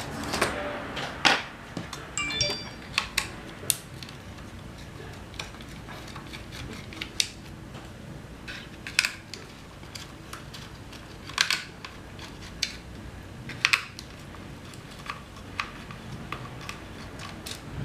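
Irregular sharp clicks and taps from small plastic and metal parts and tools being handled while a drone is worked on, with a brief high squeak about two and a half seconds in.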